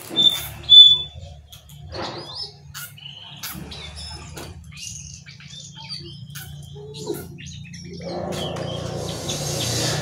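Jongkangan songbird calling: scattered short chirps and whistled notes with sharp clicks, two loud high notes just under a second in, over a steady low hum. From about eight seconds in a rushing noise swells and grows louder.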